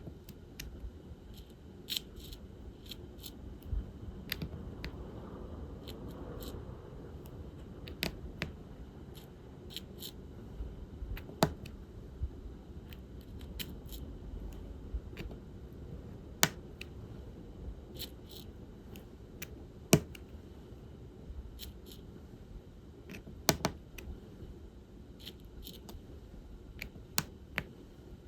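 Diamond painting work: a drill pen picking up resin drills and pressing them onto the sticky canvas, heard as scattered sharp clicks and taps at an irregular pace, a few louder than the rest, over low steady room noise.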